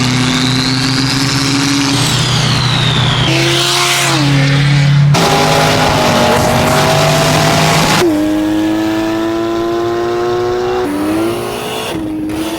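High-performance cars accelerating hard, engines at high revs in a string of abruptly cut clips, each engine note held steady or climbing slowly. A high whistle rises and then falls over the engine in the first three seconds.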